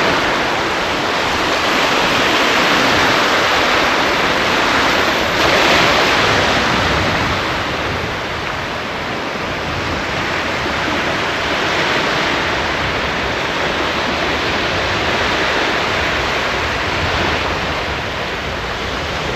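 Waves breaking on the shore, a loud steady wash that swells and eases every few seconds.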